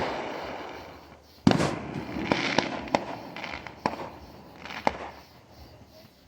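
Fireworks going off: a loud burst about one and a half seconds in, then scattered sharp cracks and pops that thin out and fade near the end.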